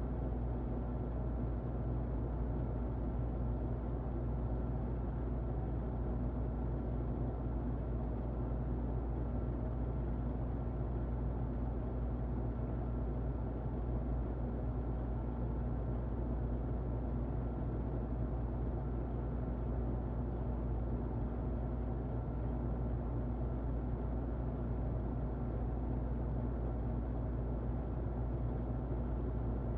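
Muffled electric fan running steadily: an even, low rushing noise with a faint steady hum under it.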